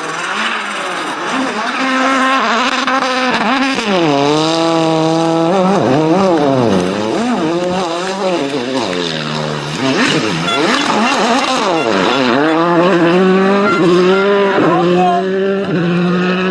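Rally car engine revving hard, its pitch climbing and falling again and again as the car changes gear and brakes through corners.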